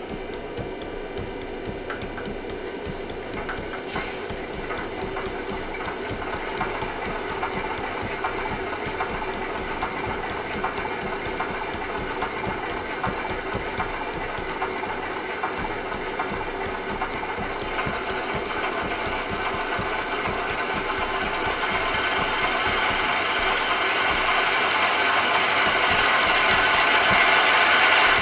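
Sound decoder in a model Class 47 diesel locomotive playing its simulated 'long start' through the model's small loudspeaker: the fuel pump sequence and the diesel engine starting up. A steady mechanical running that grows louder over roughly the last ten seconds.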